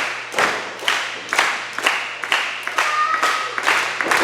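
Arena crowd clapping in unison, a steady beat of about two claps a second, echoing in the hall.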